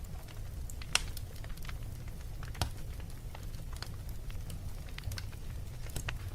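Wood fire in a fireplace crackling: irregular sharp pops and snaps, the loudest about a second in and another a little before the middle, over a steady low rumble.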